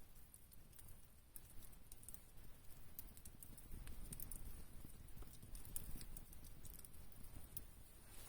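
Wood campfire crackling quietly, with scattered irregular small pops and ticks.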